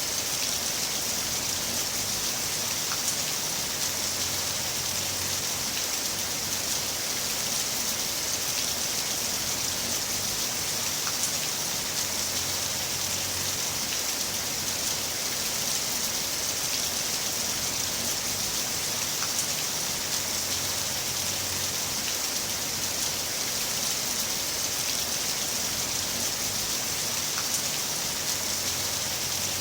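Heavy rain falling steadily in an even hiss, with a faint low rumble underneath that swells and fades every several seconds.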